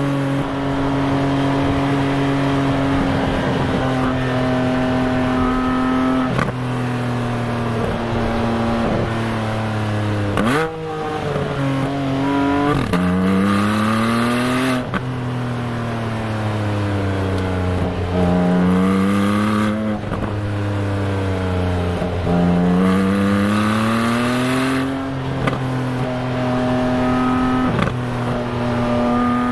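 Exhaust of a 2021 Porsche 718 Spyder's 4.0-litre flat-six, heard close at one tailpipe. It runs steady at low revs with a flatulent burble, which comes from the microphone sitting by one outlet. Its pitch jumps up and down quickly about ten seconds in, then climbs and falls several times as the car accelerates and eases off.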